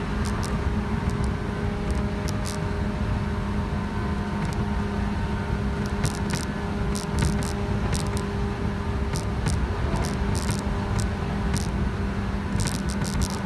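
JR West 117 series electric train running at speed, heard from inside the car: a steady hum over the rumble of wheels on rail, with scattered short clicks.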